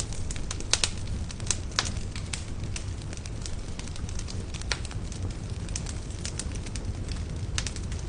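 Wood fire burning in a fireplace: irregular crackling with sharp pops, the loudest a little under a second in and near two seconds, over a steady low rumble of the flames.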